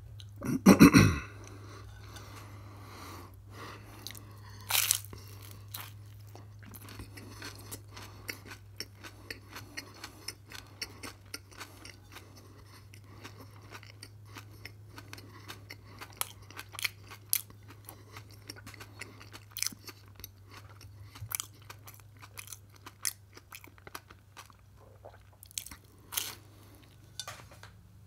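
Close-up crunchy chewing of toasted whole-grain bread topped with cheese and raw radish slices, many sharp crunches at an uneven pace. One loud sudden sound comes about a second in.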